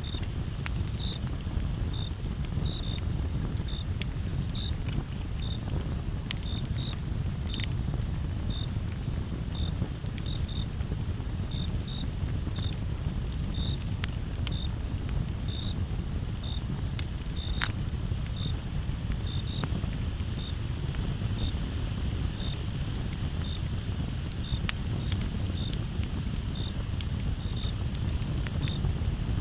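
Campfire crackling with scattered sharp pops, two louder ones about a quarter and about three fifths of the way through, over a low steady rumble. Crickets chirp throughout: one cricket gives short chirps about once or twice a second over a continuous high insect trill.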